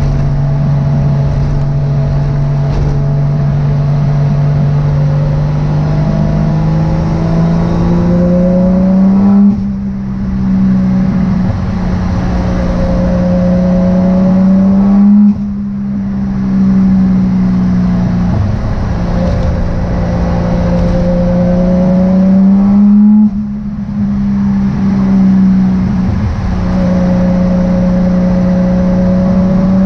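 Turbocharged 1JZ-GTE VVT-i inline-six in a Nissan 240SX, pulling hard under throttle and climbing in pitch. The throttle snaps shut three times as the car shifts up, and the engine pulls again after each shift.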